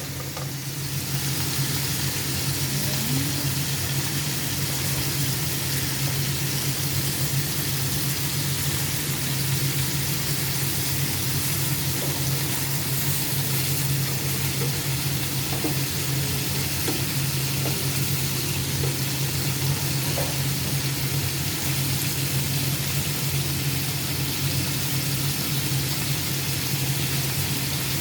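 Chicken adobo sizzling steadily in an uncovered pan over low heat, an even frying hiss with a constant low hum underneath.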